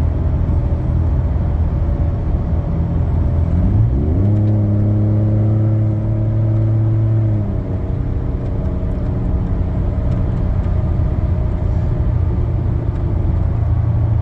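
Ford F-150's 3.5 EcoBoost twin-turbo V6 running through an AWE 0FG exhaust with a Borla resonator while driving, a steady low hum. About three seconds in, the engine note climbs and holds for roughly three seconds, then falls back to a lower, quieter hum.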